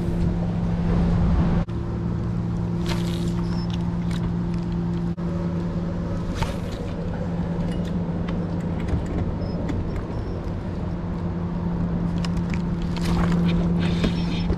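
A boat motor running at a steady, even hum, with low wind rumble and a few brief sharp noises about three seconds in, around six and a half seconds, and near the end.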